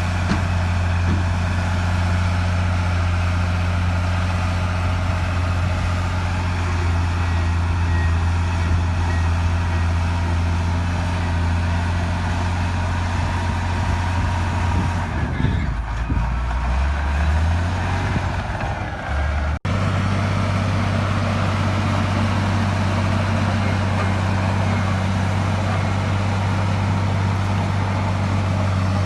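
Heavy diesel earthmoving engine running steadily with a deep hum. About halfway through, its note sags and wavers for a few seconds, and the sound cuts out abruptly for an instant. It then continues steady.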